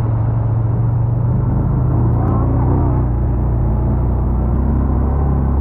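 Motorcycle engine running at a steady speed, a low even drone.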